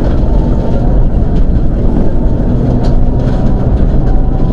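Mitsubishi Lancer Evolution IX rally car's turbocharged 2.0-litre four-cylinder engine running loud and hard, heard from inside the cabin, its revs rising and falling.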